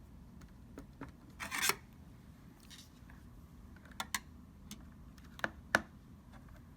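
Flathead screwdriver scraping and clicking against the bent fan shroud of a PS4 Slim as it is pried back up, so that it no longer rubs the fan: a short scrape about a second and a half in, then a few sharp clicks.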